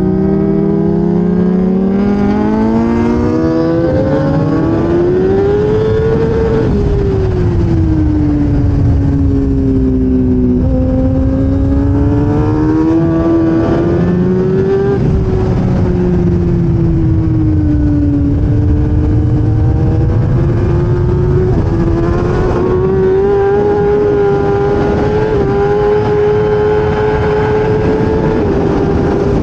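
A 1000cc race motorcycle's engine heard onboard, its revs rising and falling smoothly over several seconds at a time rather than in sharp gear-change steps, under heavy wind rush on the microphone.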